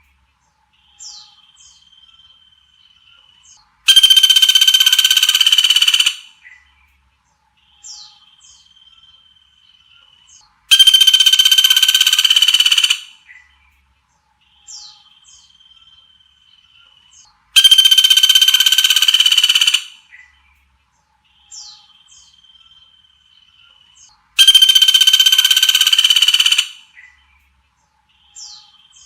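Songbird recording played on a loop: a loud, buzzy call held at one pitch for about two seconds comes four times, about every seven seconds, with short thin falling whistles and a faint held whistle in between.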